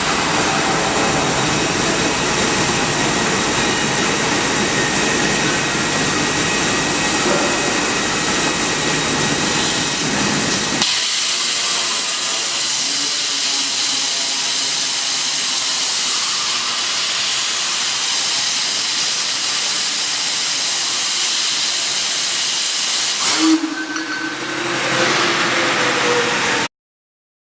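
CNC plasma cutting torch hissing steadily as it cuts steel. The hiss loses its low rumble about eleven seconds in, falters briefly near the end, then cuts off abruptly.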